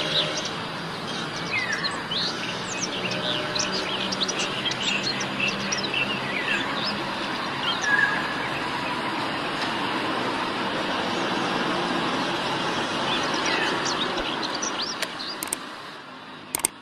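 Wild birdsong: many short, high chirps and quick sweeping notes with a brief whistle about eight seconds in, over a steady background hiss. A low hum comes in twice during the first few seconds.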